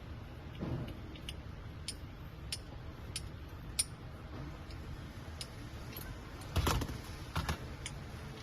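Light metallic clicks, about one every half second for a few seconds, then a few louder knocks near the end: a wrench and screw being worked on a manual EDM chuck.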